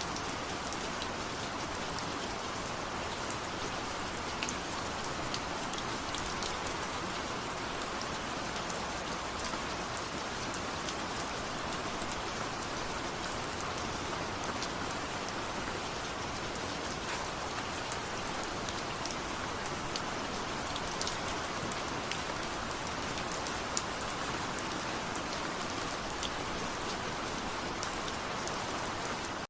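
Steady rain, with many small drops ticking sharply against a surface.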